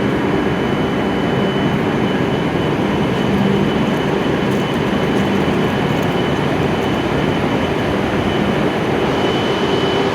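E7-series Shinkansen train standing at the platform, its on-board equipment giving off a steady, loud hum with a thin, steady high whine.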